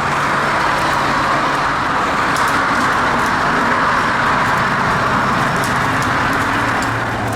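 Tow truck engine running steadily under load while it pulls a wrecked vehicle up out of a ditch, with a steady rushing noise over it; the engine tone drops slightly near the end.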